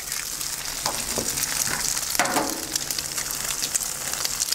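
Diced bread dumplings, roast pork and onions frying in butter on a hot cast-iron griddle plate: a steady sizzle while raw eggs are cracked over the food.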